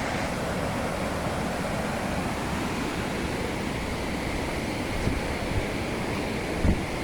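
Steady outdoor rushing noise, like running water or wind, with a few short low bumps against the microphone in the last two seconds.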